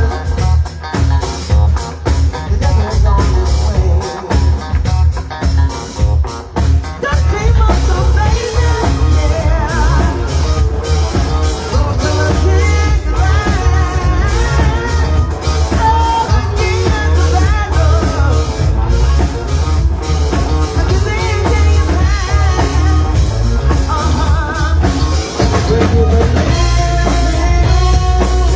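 Rock band playing, with singing, electric guitar, bass and a drum kit.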